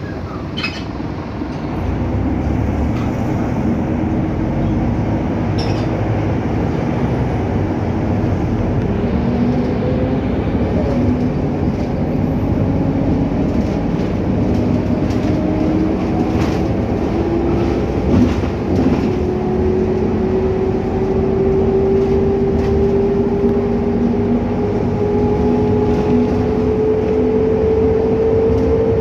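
Ride noise inside a Scania K310UA articulated bus under way: steady engine and road rumble, with a whine that climbs slowly and steadily in pitch through most of the stretch as the bus gathers speed. A few brief clicks and rattles come near the start.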